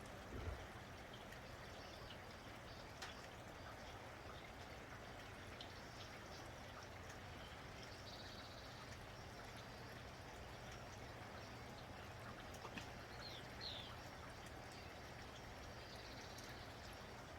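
Steady rain falling, an even hiss dotted with small drip ticks, with a low thump just after the start. Two short bird chirps come about three-quarters of the way through.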